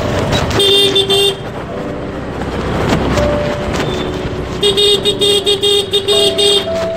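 Busy road traffic with vehicle horns honking. One horn sounds in a quick string of rapid beeps about half a second in, and again in a longer string past the middle.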